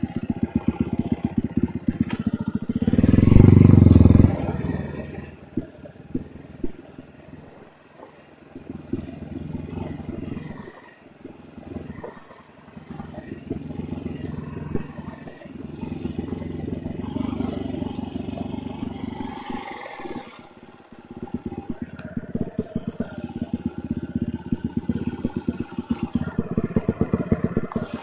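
Enduro motorcycle engine working at varying throttle over rough ground, with a loud burst of revs about three seconds in and the engine easing off and picking up again several times.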